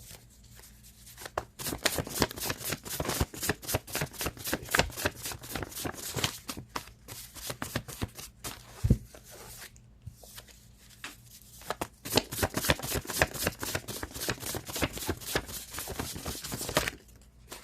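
A deck of tarot cards being shuffled by hand: quick runs of soft card-on-card clicks that ease off briefly about halfway through.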